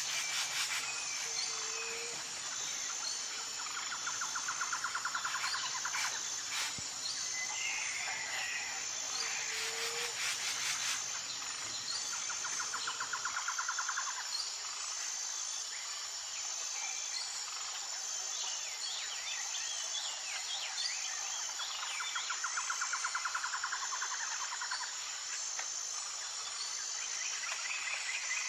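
Forest ambience: a steady, high insect drone runs under scattered bird chirps and calls. A rapid trill lasting about two seconds comes back several times.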